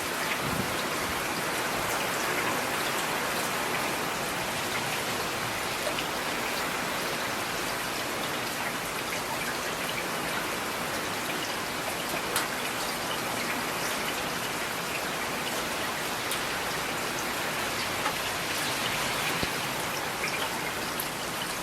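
Steady rain falling, an even hiss of drops with scattered sharper drip ticks.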